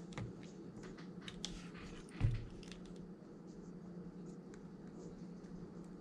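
Light clicks, taps and scratching of small-scale hand work at a bench, with one louder knock a little over two seconds in, over a steady low hum.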